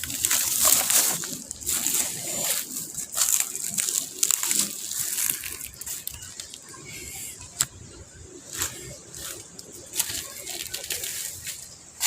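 Close-miked chewing of macopa (wax apple): irregular crunches and clicks, busiest in the first two seconds, then sparser.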